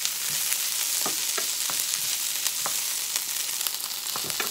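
Rice and ground-meat picadillo frying in oil in metal pans on high heat, a steady sizzle. A wooden spatula stirs and knocks irregularly against the pans.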